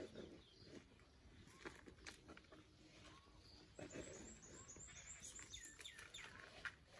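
Faint outdoor quiet with a small bird chirping a quick run of short, high notes in the second half.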